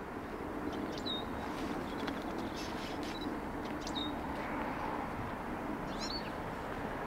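Birds chirping in short calls, about five of them, over a steady distant rumble that slowly grows.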